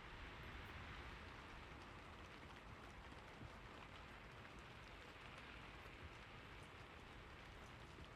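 Faint, steady rain: an even hiss of falling rain with a few soft clicks.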